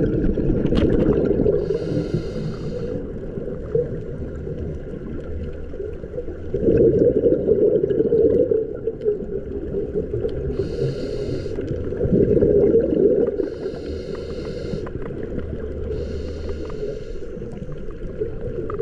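Scuba diver breathing through a regulator underwater: short hissing inhalations alternate with louder, low bubbling exhalations, in a slow cycle of a few breaths.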